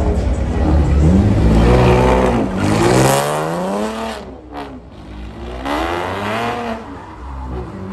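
Chevrolet Camaro's engine revving hard as the car spins donuts, the revs rising and falling about three times and easing off for a moment around the middle.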